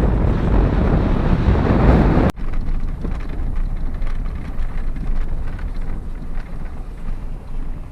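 Wind buffeting the microphone over a low rumble; the sound cuts off abruptly about two seconds in and gives way to a quieter, steady low rumble.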